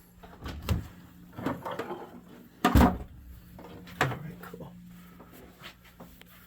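Scattered knocks and clunks of things being handled, like a cupboard door or panel being moved, with one louder sharp knock a little under three seconds in. A faint steady low hum runs underneath.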